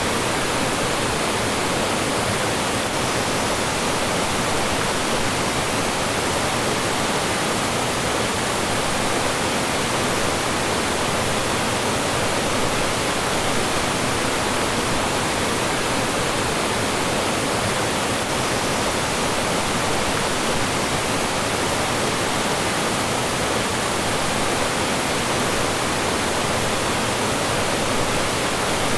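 Mountain stream rushing over rocks, a steady, even wash of flowing and falling water.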